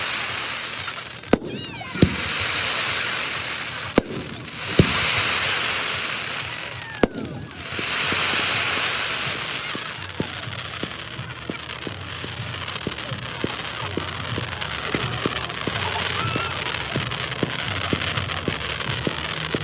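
Fireworks display: aerial shells bursting with sharp bangs, each followed by a long crackling hiss as the effects fall. From about ten seconds in, a dense run of rapid small pops and crackles takes over.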